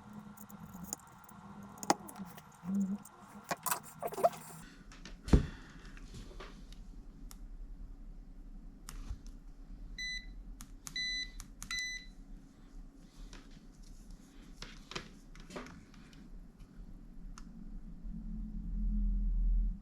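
Small clicks and knocks of tools and metal parts being handled on an electronics repair bench during desoldering, with three short electronic beeps about ten seconds in. A low steady hum comes in about four seconds in and grows louder near the end.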